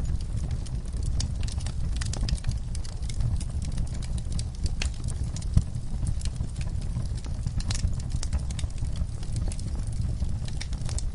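Wood fire crackling in a fireplace: irregular sharp snaps and pops over a steady low rumble of burning, with one louder pop about halfway through.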